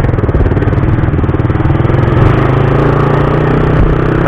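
Suzuki Raider 150's single-cylinder four-stroke engine running steadily as the motorcycle is ridden.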